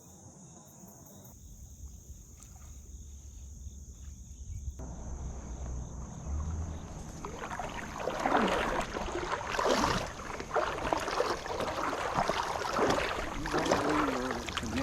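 Water splashing and sloshing around a kayak, irregular strokes that build up from about five seconds in and stay loud. At first it is quiet, with a steady high insect chorus.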